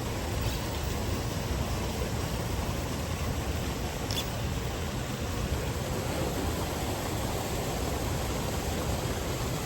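Steady rushing noise with no pitch to it, heaviest at the low end, holding even throughout, with a faint click about four seconds in.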